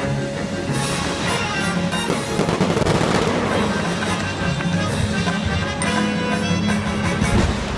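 Fireworks bursting again and again over loud orchestral music, the bangs thickest from about two seconds in.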